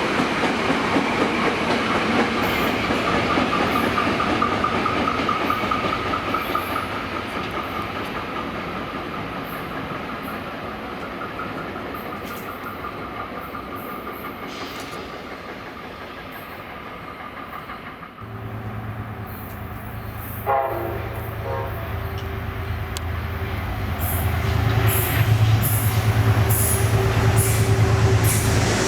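A passenger train passing on the rails with clatter and a steady whine, fading away. A second train then approaches with a low steady engine drone, gives a short horn blast about two-thirds of the way through, and grows louder with rail clicks near the end.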